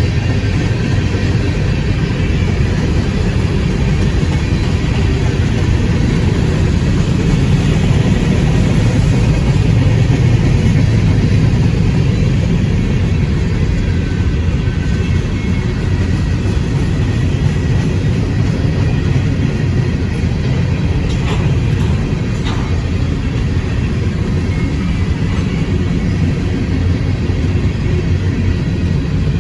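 A freight train rolling past, a steady heavy rumble of wheels on rail, with two short metallic knocks a little over two-thirds of the way through.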